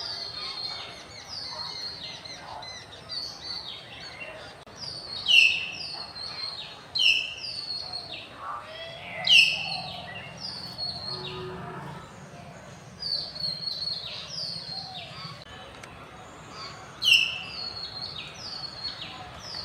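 Common hill mynahs calling: a steady run of short, sharp notes that each sweep down in pitch, repeated several times a second, with a few much louder calls standing out.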